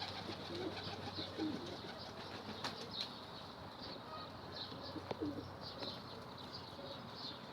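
Domestic pigeons in a loft, faint: a few brief wing flaps and soft scattered coos and clicks.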